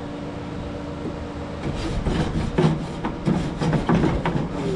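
Charcoal grill's grate being scraped clean, a run of quick rasping strokes starting a little under two seconds in, over a steady low hum.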